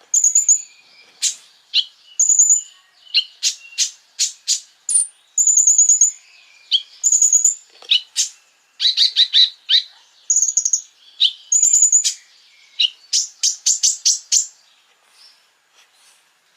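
Konin bird singing: a fast string of sharp, high chips and short whistled notes in bursts with brief gaps, fading out near the end.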